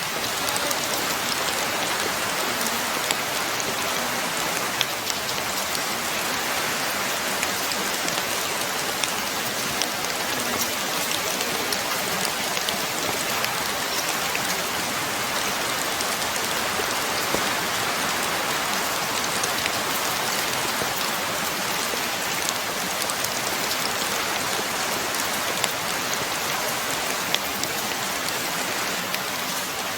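Steady rain falling, with louder single drops striking a surface now and then.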